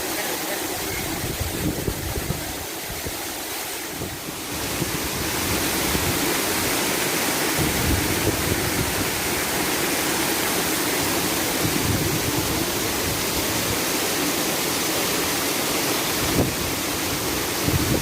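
Waterfall rushing: a steady wash of falling water, getting louder about four seconds in and then holding even.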